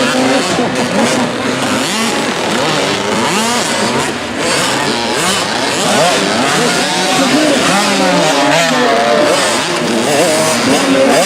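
Several 65cc two-stroke youth motocross bikes racing together, their engines revving up and down over one another throughout.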